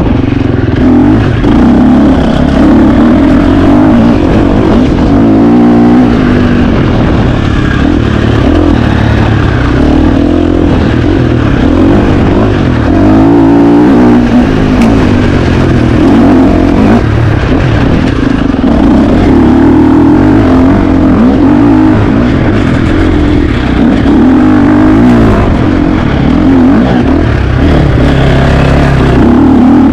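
KTM 350 XC-F four-stroke single-cylinder dirt bike engine being ridden hard, its revs rising and falling constantly.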